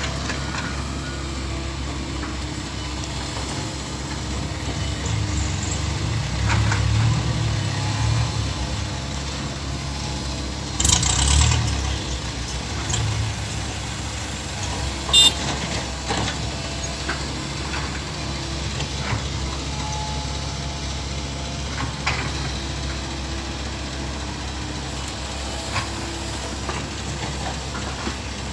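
Komatsu PC128 excavator's diesel engine running steadily, swelling louder a couple of times under digging load, with scattered clicks and clanks and one sharp metallic knock about halfway through.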